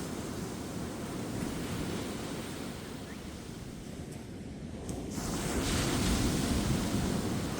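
Ocean surf breaking and washing up a beach: a steady rush that eases off in the middle, then swells louder as a wave breaks about five seconds in.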